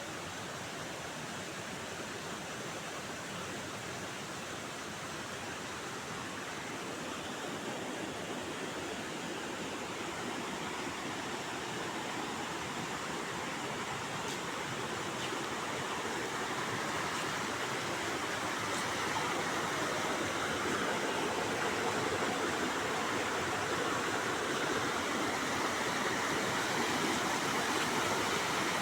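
Mountain stream rushing, a steady sound of flowing water that grows slowly louder.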